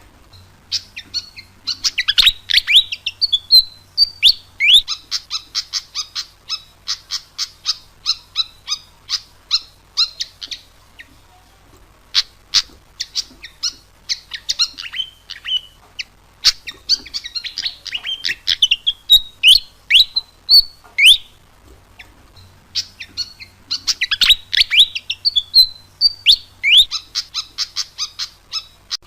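A fantail (sikatan kipas) singing actively: quick runs of high chirps mixed with squeaky down-slurred notes, in three bouts with short pauses about 11 and 22 seconds in.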